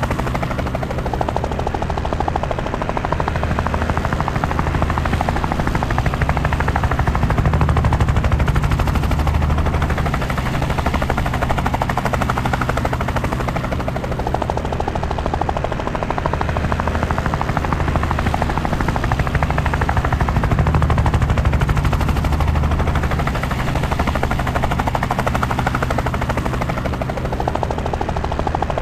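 Helicopter rotor and engine running steadily, a rapid, even chop of the blades under a low drone. The sound swells a little twice, about a third of the way in and again about two thirds in.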